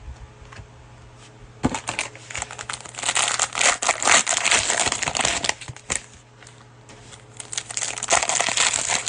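Plastic cellophane wrapper of a trading-card cello pack crinkling as it is torn open and handled, in two spells of crackling.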